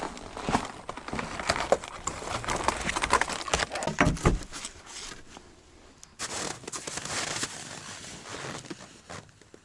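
Irregular crinkling and crackling, like something being crumpled or handled, busy at first and thinning out after about five seconds.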